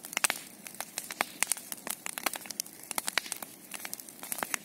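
Large bonfire crackling, with irregular sharp pops several times a second.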